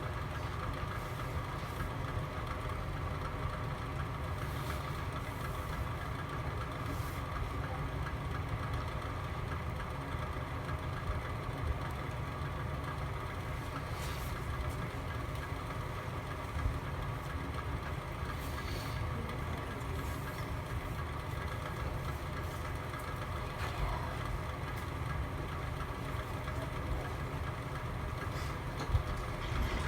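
Fire burning in a fireplace: a steady low rumble with a few scattered crackles and pops, the sharpest one near the end.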